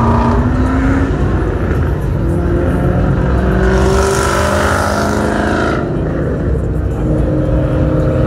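Ford Mustang engines running loud, the pitch of the engine note climbing as they rev. From about three and a half seconds in there is a harsher, brighter stretch of revving that cuts off sharply near six seconds.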